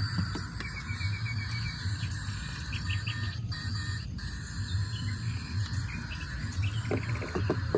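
Birds chirping and insects trilling, over a low hum that swells and fades in regular pulses.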